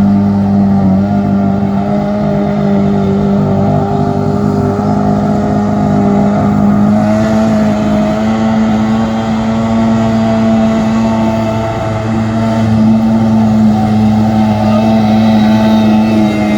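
Small jet boat's engine running hard at a steady pitch, holding its revs with only a slight dip about twelve seconds in.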